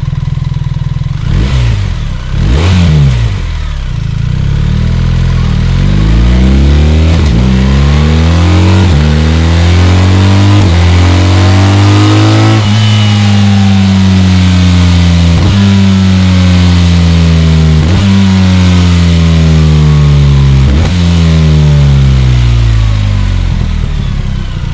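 BMW R 1300 GS's 1,300 cc two-cylinder boxer engine revved twice in quick blips, then pulling hard through the gears with several upshifts. After that it slows down with several downshifts, the revs jumping up at each one.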